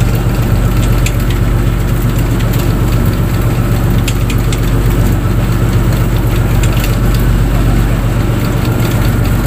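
Fishing boat's engine running steadily with a loud, constant low hum, along with a few faint scattered ticks.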